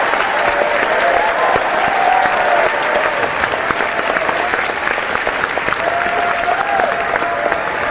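Large audience applauding steadily, many hands clapping at once in a dense, even patter.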